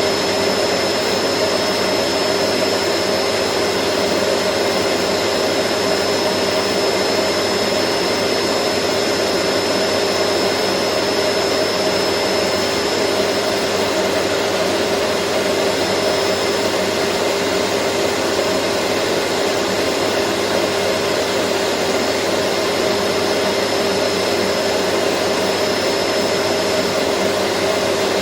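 Vacuum cleaner running steadily: an even rushing of air with a steady motor hum and a thin high whine, unchanging throughout.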